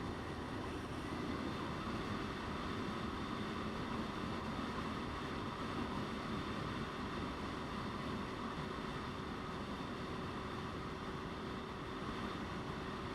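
Motorcycle riding at a steady speed: the engine's even drone under a steady rush of wind on the microphone.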